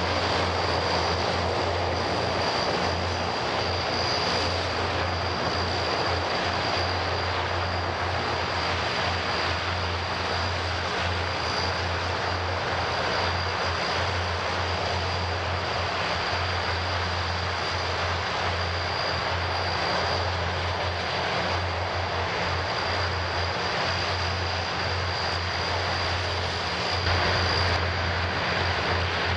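Antonov An-32's twin turboprop engines running steadily at taxi power: a continuous propeller drone with a low hum and a steady high-pitched turbine whine.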